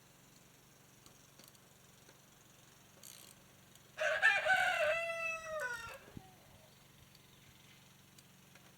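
A single drawn-out animal call, about two seconds long, dropping in pitch at the end.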